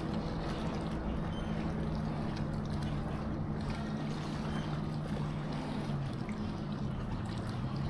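A motorboat engine on the lake running with a steady low drone.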